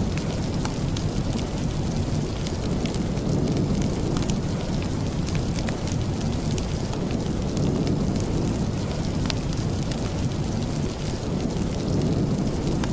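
Steady rain, its sound heavy in the low end, with scattered small crackles from a wood fire in a fireplace.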